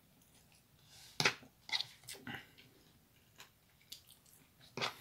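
A man eating noodles close to the microphone: a few short, wet chewing and mouth sounds, the loudest about a second in and another near the end.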